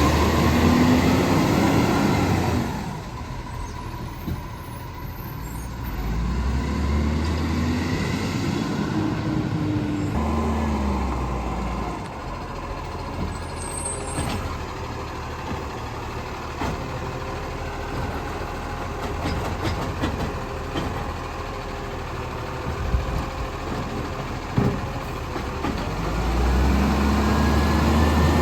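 Garbage truck's diesel engine revving up and dropping back three times: at the start, again about six to ten seconds in, and near the end. It runs lower and steadier in between.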